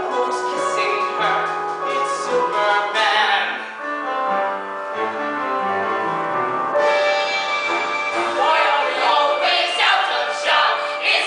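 A show tune performed live: singing over instrumental accompaniment.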